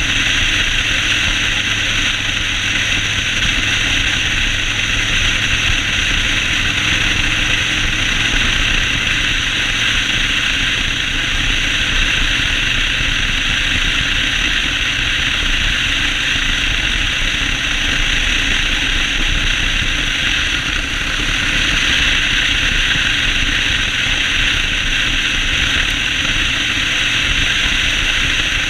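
Yamaha Road Star 1600 V-twin motorcycle running steadily on the road, with a loud, even rushing noise over the engine that holds without a break.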